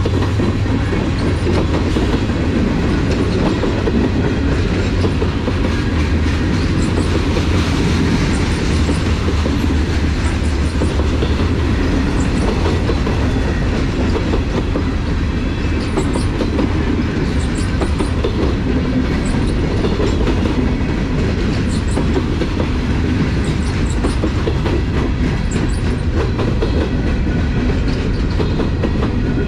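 Norfolk Southern freight train rolling past at speed: a steady, loud rumble with its wheels clacking over the rail joints.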